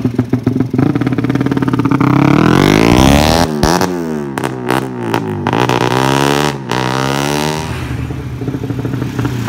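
Motorcycle engine running through an aftermarket DOS exhaust muffler. It idles with a pulsing beat, is revved up steadily from about a second in, then blipped several times in quick succession, and drops back to idle near the end.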